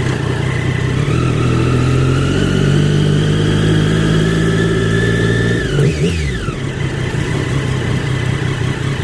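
Motorcycle engine pulling under throttle, its pitch climbing slowly for several seconds, then dropping abruptly about six seconds in as the throttle closes, and running steady at a lower note after that.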